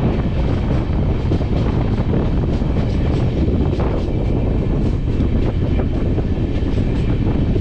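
Train running on the rails: a steady heavy rumble with scattered sharp clacks of the wheels, and wind buffeting the microphone.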